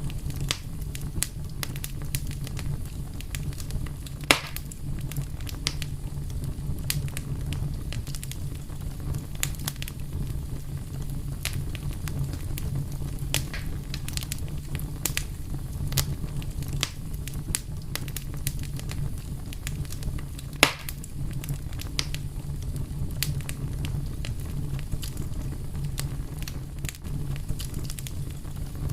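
Wood fire burning with a steady low rumble and frequent sharp crackles and pops, two of them louder: one about four seconds in, the other about twenty seconds in.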